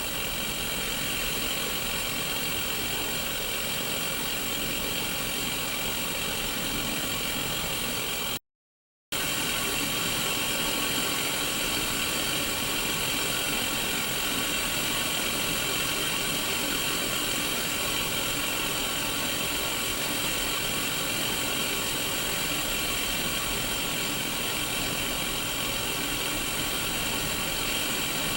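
Steady hiss of static from a Sony Mega Watchman mini black-and-white CRT TV tuned to no station. It cuts out to silence for under a second about eight seconds in, then resumes unchanged.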